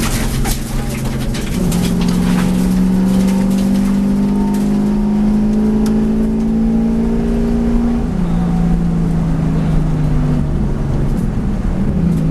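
V8 race car engine pulling hard under throttle, its pitch climbing slowly, then dropping sharply at a gear change about eight seconds in before climbing again.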